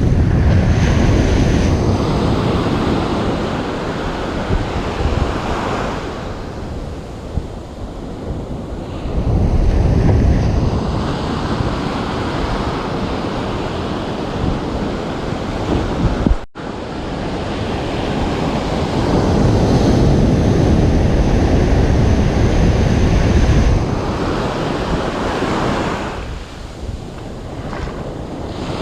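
Ocean surf breaking and washing up a beach, swelling and easing in slow surges several seconds apart, with wind rumbling on the microphone. The sound cuts out for an instant a little past halfway.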